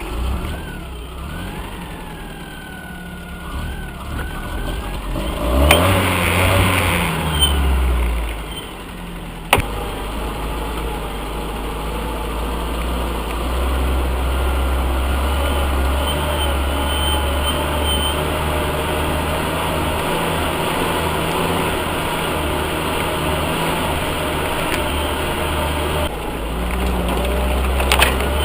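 UAZ off-roader's engine working in mud. It revs up hard about six seconds in, then settles to a steady, labouring run. A single sharp knock comes about nine and a half seconds in.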